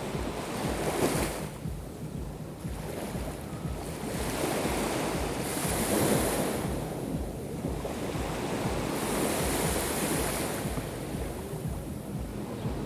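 Black Sea waves breaking and washing up the shore, the wash swelling and falling back every few seconds, with wind buffeting the microphone as a constant low rumble.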